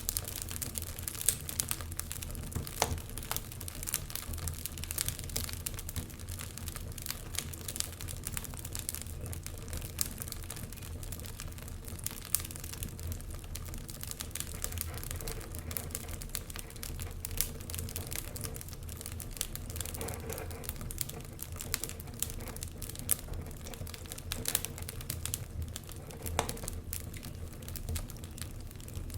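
Wood fire crackling in a fireplace: dense, irregular snaps and pops, a few louder than the rest, over a steady low rumble.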